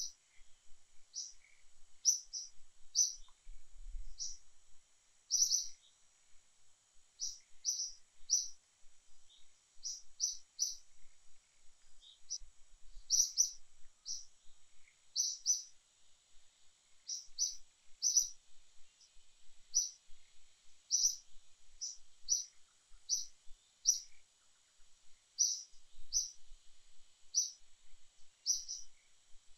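Small forest bird chirping: short, high chirps repeated every second or so, often in quick twos and threes, over a steady high-pitched buzz.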